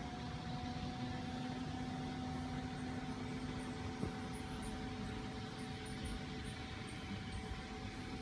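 Steady motor hum holding one pitch, with faint high chirps repeating from about three seconds in.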